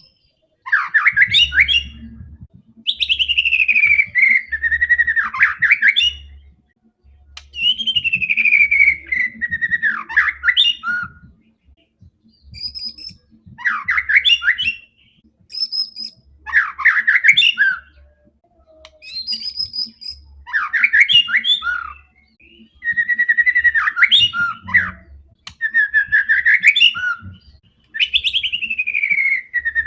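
White-rumped shama singing in full voice: about a dozen rapid phrases of one to three seconds each, broken by short pauses, many of them sweeping down in pitch.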